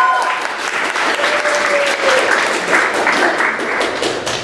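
Live audience applauding, with dense clapping throughout that dies away near the end.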